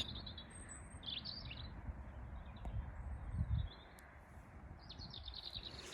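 Birds chirping in the background, short calls coming every second or so and thickening near the end, over a low rumble that swells briefly about three and a half seconds in.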